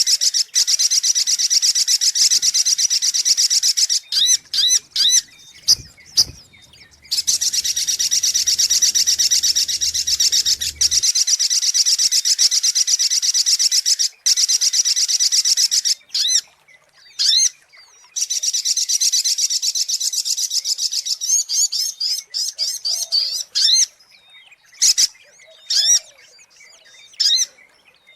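Sogok ontong (spiderhunter) calling, as used for a bird-lure recording: long, rapid runs of high, sharp chirps, each lasting several seconds. The runs are broken by pauses and by short single calls.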